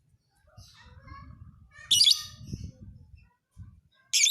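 Lovebird calling: two loud, shrill chattering bursts, one about two seconds in and one near the end, with softer chirps between them.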